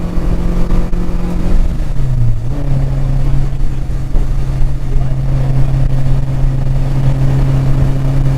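Porsche 944's four-cylinder engine running hard under load, heard from inside the cabin with road and wind noise. Its note drops about two seconds in, then holds steady.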